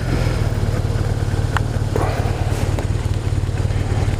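BMW R1200RT's boxer-twin engine idling steadily while the motorcycle is stopped.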